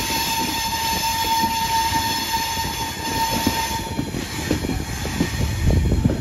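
Train running over curved track through a junction, heard from on board: a steady high-pitched whine for about the first four seconds, over the rumble of the wheels. After the whine stops, the wheels thump and clatter over rail joints and points, loudest near the end.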